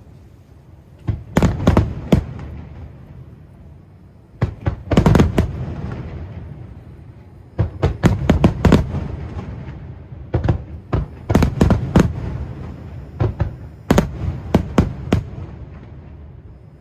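Aerial firework shells bursting in clusters of several sharp bangs about every three seconds, each cluster followed by a low rumble that dies away.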